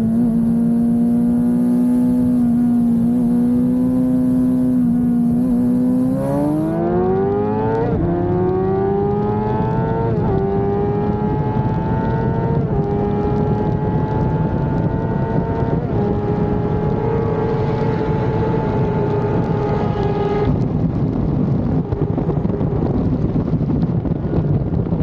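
Sport-bike engines in a roll race. They hold a steady cruise for about six seconds, then accelerate hard, the pitch climbing through several upshifts. About twenty seconds in the engine note drops away, leaving a steady rushing noise.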